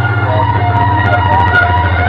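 Loud DJ music blasting from a street sound-box rig: a heavy, pulsing bass under a wavering high melody.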